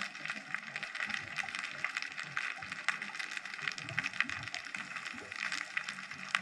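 Underwater ambience picked up through a GoPro's housing: a dense, continuous crackle of fine clicks with faint, irregular low rumbles underneath.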